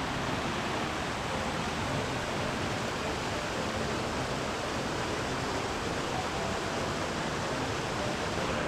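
Steady rush of running water from a fast-flowing river, an even, unbroken noise.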